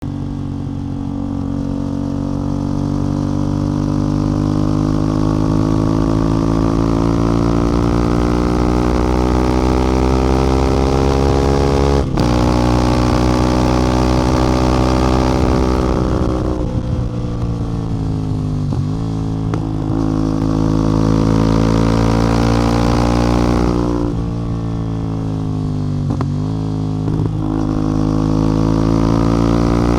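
CF Moto 450MT's parallel-twin engine and exhaust under way, the revs climbing slowly for the first twelve seconds. A sharp click comes about twelve seconds in. Later the pitch falls as the throttle eases, dips briefly a few times, and climbs again near the end.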